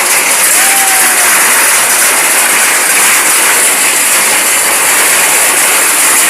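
Heavy rain with hail pouring down, a loud steady rushing hiss.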